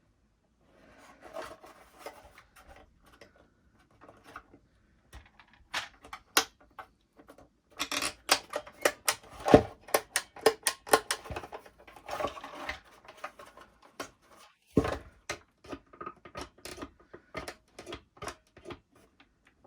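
Hard plastic vacuum-cleaner casing parts being handled and pried at: irregular clicks, taps and scraping as a plastic clip is worked loose, busiest around the middle.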